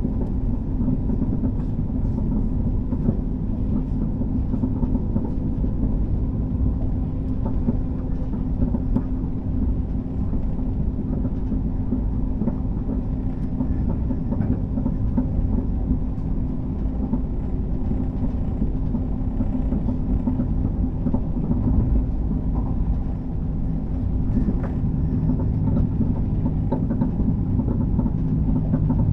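Passenger train running at speed, heard from inside the carriage: a steady rumble of wheels on rail with a constant low hum and occasional faint clicks.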